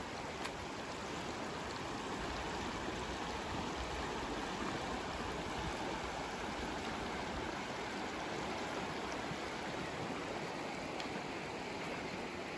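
A river flowing, a steady rush of moving water.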